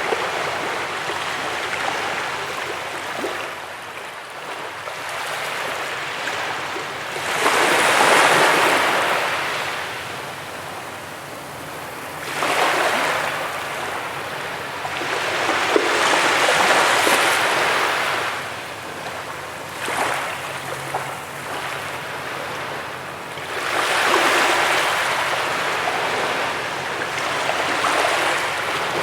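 Ocean surf breaking on a beach: a continuous rush of water that swells into a louder wash every few seconds, four main surges, the loudest about eight seconds in.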